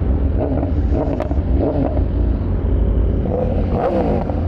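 Sport motorcycle engines revving while riding. The engine pitch sweeps up and down a few times over a steady low rumble.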